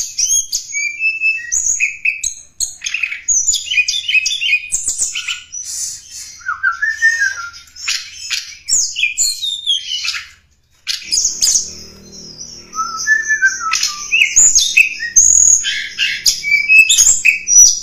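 Tledekan gunung song from a bird-luring recording: rapid high chirps and twittering whistled phrases, some sliding downward, with a brief break about ten seconds in.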